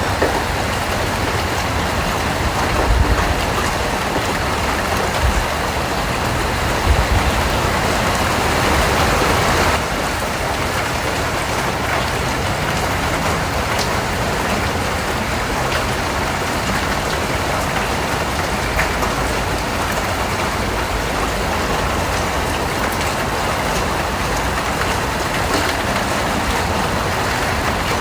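Steady rain falling, an even hiss with a few low thumps in the first seconds. It turns slightly softer at about ten seconds.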